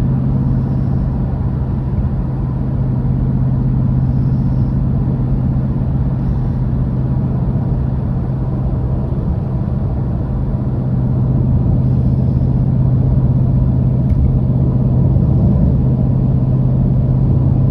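Exhaust drone heard inside the cabin of a 2013 Jeep Grand Cherokee's 5.7 Hemi V8 with Cherry Bomb mufflers and the resonator deleted, cruising at about 70 mph: a steady low hum over road rumble, a little louder in the last few seconds. At this speed the drone is at its maximum.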